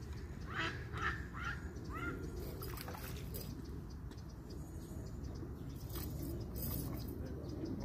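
A bird calling about five times in quick succession, each call a short rising-and-falling note, over a steady low rumble.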